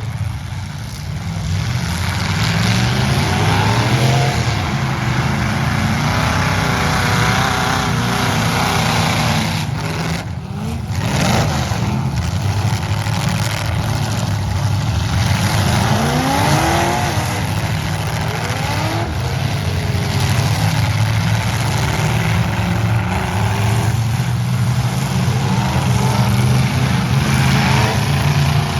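Several demolition derby trucks' engines running loud and revving hard, with repeated rising revs, about a dozen times across the stretch.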